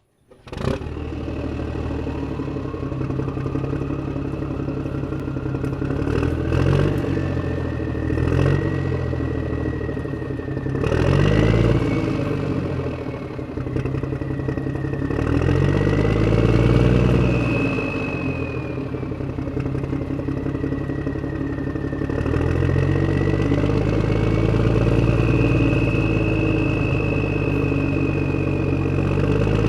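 Motor of a spinning-disk toy starting up and running. Its whine rises in pitch over the first several seconds, then wavers up and down over a low rattling hum.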